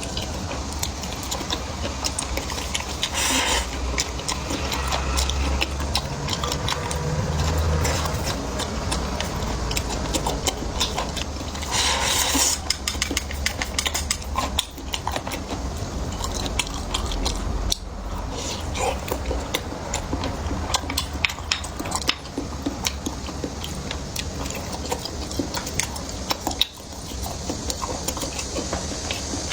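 A person eating close to the microphone: chewing, with many short clicks of utensils against dishes.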